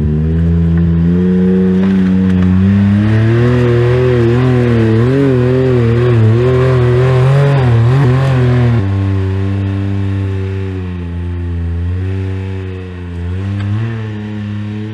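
Side-by-side UTV engine working hard on a steep trail climb. Its revs rise, then waver up and down under throttle, then fall suddenly about nine seconds in as the throttle is backed off, and it keeps running at lower revs.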